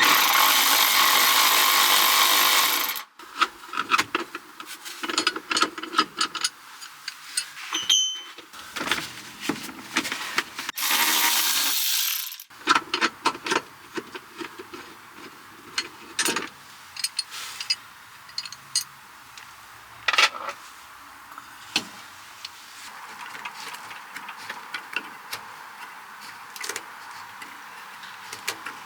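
Hand tools and loose metal hardware clicking, clanking and rattling while a Miata hardtop is unbolted, with two loud rushing bursts of noise, one at the start lasting about three seconds and another about eleven seconds in.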